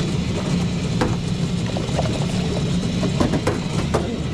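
Coffee-shop machinery running steadily while a drink is made: a low motor hum with an even hiss over it, and a few light clicks and knocks.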